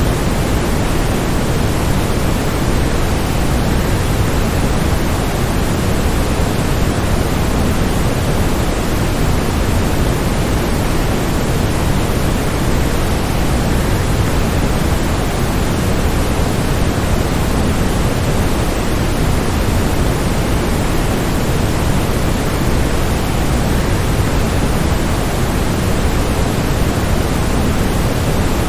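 Steady, unbroken rush of a waterfall: a dense, even noise, heavier in the low end, with no changes or separate events.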